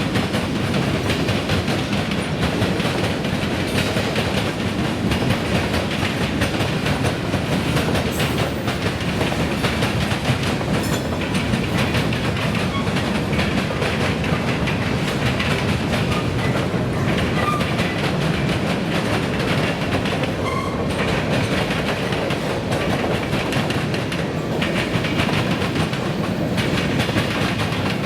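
Freight train cars rolling past, a steady rumble with the clickety-clack of steel wheels on the rail joints.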